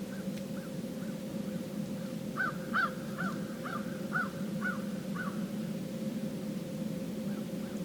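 A bird calling a run of short, arched notes about two a second, loudest for about seven notes in the middle, over a steady low hum.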